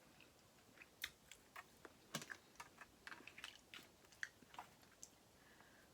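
Faint eating sounds: a person chewing, with irregular small clicks and crunches.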